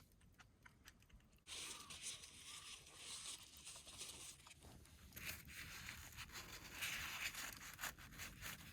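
Faint clicks, then from about a second and a half in, a rough crinkling and scraping handling noise that swells and fades.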